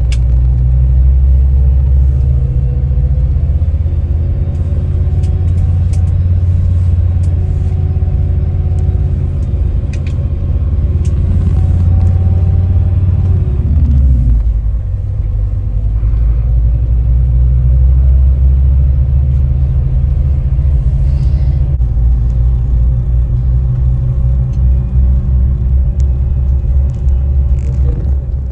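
Deep, steady rumble of a bus's engine and drivetrain heard from inside the moving bus, easing off briefly about halfway through before picking up again.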